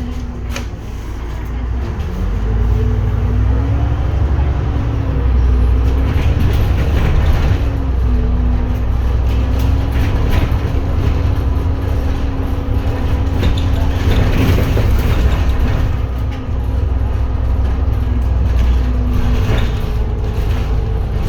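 Edison Motors Smart 110G city bus, heard from inside, pulling away from a stop on its GX12P CNG engine: the low drone grows louder about two seconds in, and an engine tone rises and falls as the bus gets up to speed, then runs on at cruise.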